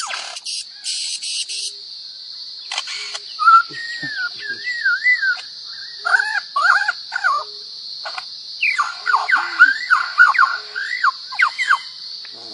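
A bird giving a run of warbling whistles, the notes gliding up and down in wavy sweeps and quick rising and falling slurs, with short pauses between phrases.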